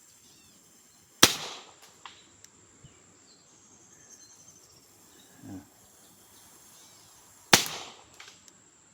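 Two shots from a Pistelle X68 pressurised-air pistol, about six seconds apart. Each is a sharp crack that trails off over about half a second, followed under a second later by a fainter snap.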